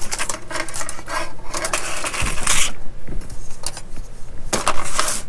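Plastic model-kit parts being handled and rubbed, with irregular scraping strokes, a longer one about two seconds in and another near the end.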